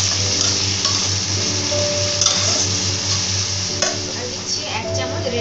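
Ginger paste, whole spices and tomato frying in hot mustard oil in a stainless steel kadai, sizzling steadily, while a metal spatula stirs and scrapes the pan a few times.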